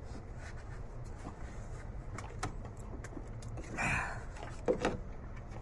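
Scattered metal clicks and scrapes of a screwdriver prying at a stuck engine-mount part, with a couple of sharp knocks near the end, over a low steady hum.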